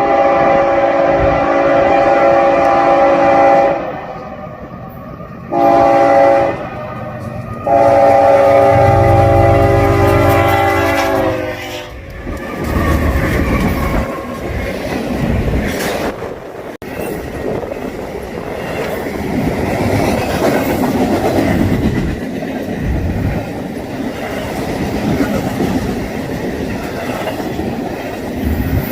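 Diesel freight locomotive's multi-note chord horn sounding a long blast, a short blast and another long blast of about four seconds. The lead locomotives then pass, their diesel engines rumbling, followed by the steady clatter of stack-train cars rolling over the rails.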